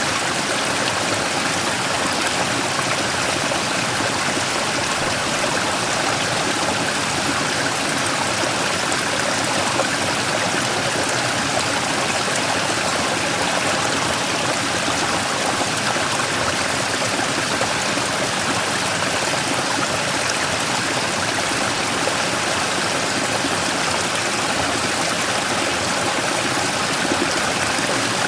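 Mountain stream flowing and splashing over a large rock in a small waterfall: a steady, even rush of water.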